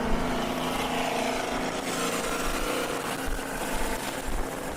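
Engines of a Dodge Hellcat and a Ford Mustang in a street race, running hard with a steady, continuous engine note over road and wind noise.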